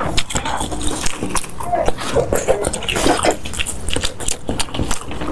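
Close-miked eating sounds: wet chewing and smacking with many quick clicks.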